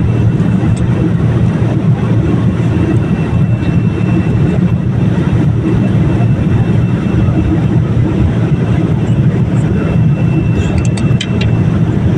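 Steady low roar of engine and airflow noise inside the cabin of a Boeing 787, with a few faint clicks near the end.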